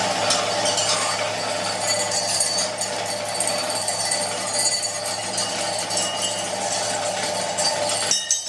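Washing-machine motor driving a homemade sand sieve, running with a steady hum while the sieve rattles and clinks. The sound dips briefly near the end.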